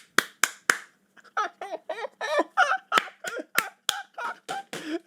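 A man laughing hard in a run of short, breathy cackling bursts, about three a second, after a few sharp bursts of breath in the first second.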